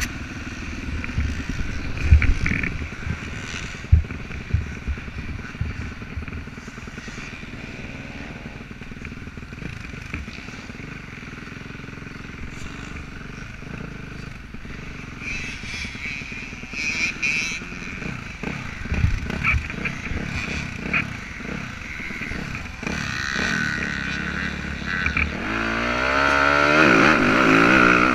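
Motocross dirt bike engine running, with a few sharp knocks early on and the engine revving up with rising pitch and growing louder near the end.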